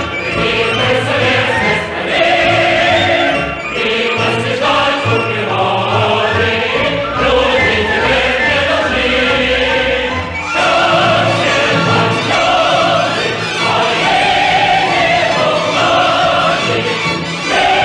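Choral music with singing voices over orchestra, sustained and swelling.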